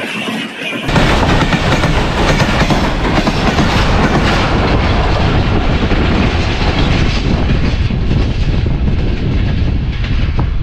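Express passenger train running through the station at high speed, passing close by: a loud, steady rush of wheels on rails that jumps up suddenly about a second in.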